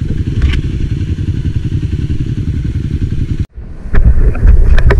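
Enduro motorcycle riding, a steady engine and wind rumble. It cuts off about three and a half seconds in, and a louder rumble with scattered knocks and clatter follows.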